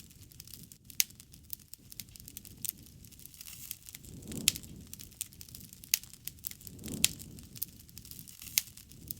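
Wood fire crackling, with sharp irregular pops and snaps, and two soft low swells about four and seven seconds in.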